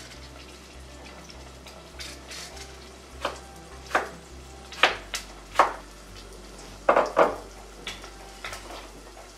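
Battered onion rings sizzling steadily in hot oil, with a string of sharp knocks and clacks from a knife and a wooden cutting board as an apple is cut and handled, the loudest about five and seven seconds in.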